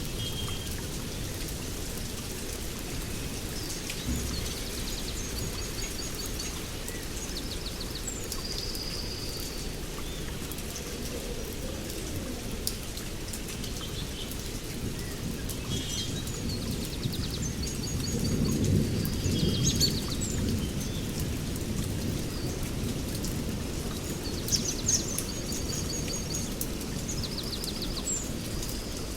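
Steady heavy rain with a low thunder rumble that swells about eighteen seconds in and fades a couple of seconds later. Forest birds give short repeated trilling calls over the rain throughout.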